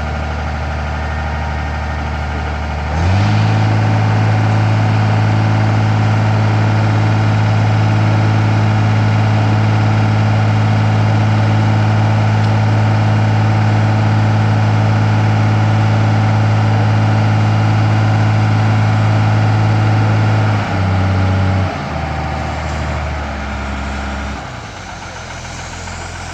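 An engine idling that speeds up about three seconds in and holds a steady higher speed. Near the end it slows back down in steps to a low, quieter idle.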